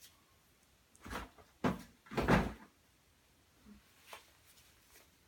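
Firework packs and boxes being handled and shifted: a few short knocks and scrapes, the loudest about two seconds in, then a couple of light taps.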